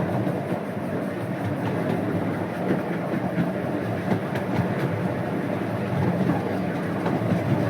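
12-inch gauge steam locomotive No. 37 and its train running steadily along the track, with a continuous rumble of wheels on rail and faint irregular clicks.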